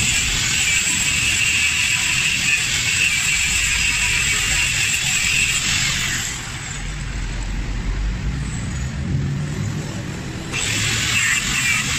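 Power grinder working on the cracked aluminium of a motorcycle engine case. It runs with a steady, hissing whine, drops off about six seconds in and comes back near the end.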